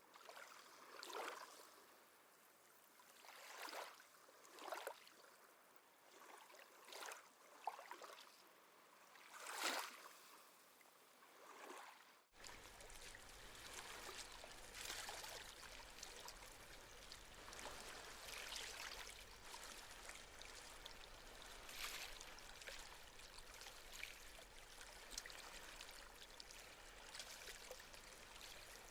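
Faint small sea waves lapping and splashing on the shore, one separate wash every second or two. About twelve seconds in, it cuts abruptly to a steadier, denser wash of waves with a low rumble underneath.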